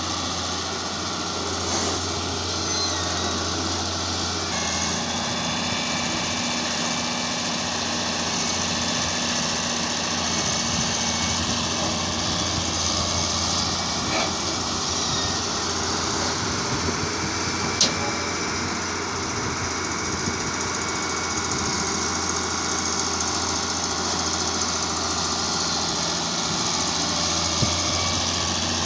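Heavy machinery engine running steadily, with a sharp click a little past halfway.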